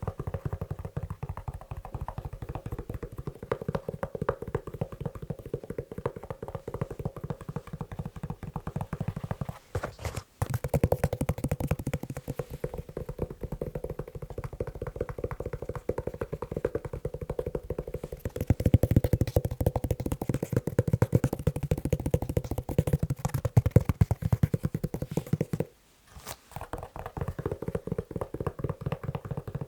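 Rapid, dense tapping on a leather shoe, many taps a second, stopping briefly twice. The tapping grows louder for a stretch in the second half.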